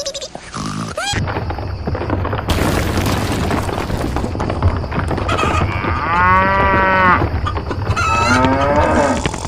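A cow mooing: one long call about six seconds in, then a shorter rising call near the end. A steady low hum runs underneath, with a stretch of rushing noise around three seconds in.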